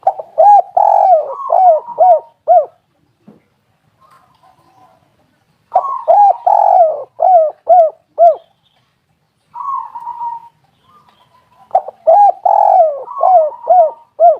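Spotted dove cooing: three phrases a few seconds apart, each a longer coo followed by four or five short, arched notes, with a fainter coo between the phrases.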